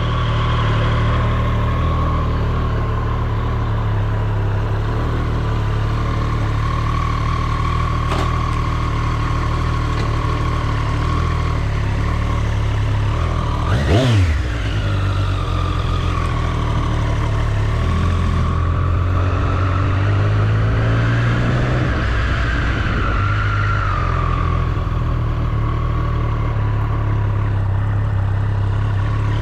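Triumph Street Triple's three-cylinder engine running steadily at low revs, with a brief throttle blip about halfway through and a gentler rise and fall in revs a few seconds later.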